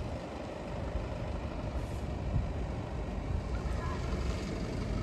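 Honda CBX550F's air-cooled inline-four engine running at idle, a steady low rumble.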